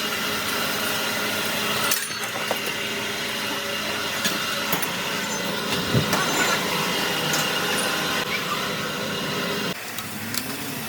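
Workshop noise: a steady hum with scattered clicks and knocks of tools on metal. The hum drops away suddenly near the end.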